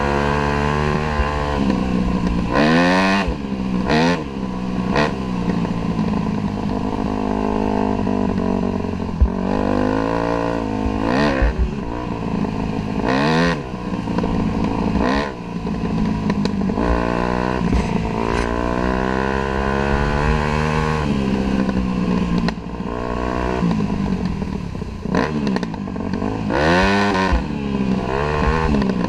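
Dirt bike engine heard from a camera mounted on the bike, running under load and repeatedly revving up and falling back as the throttle is opened and shut, with many quick rises and dips in pitch. A couple of sharp knocks stand out briefly, one around a third of the way in.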